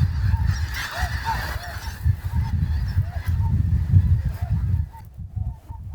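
A large flock of snow geese calling, many short high honks overlapping. Heavy wind rumbles on the microphone beneath them, and both ease off near the end.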